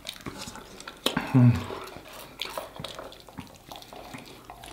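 Close-miked chewing and wet mouth clicks of people eating fried chicken wings, with a brief hum of voice about a second in.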